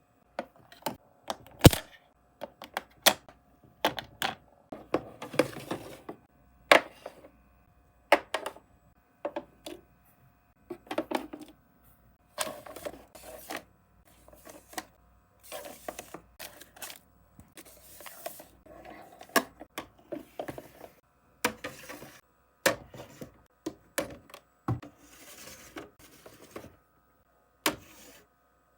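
Small skincare bottles, jars and tubes being set down and shuffled in a mini fridge: irregular sharp clicks and knocks of hard plastic and glass, with stretches of rustling as items are handled.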